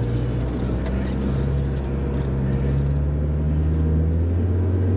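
Land Rover engine running at low revs as the vehicle crawls along a rough, muddy off-road track, its note shifting slightly about four seconds in.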